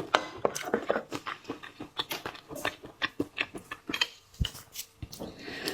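Close-miked eating sounds: a person chewing seafood with wet mouth clicks and smacks, many short sharp sounds in quick irregular succession.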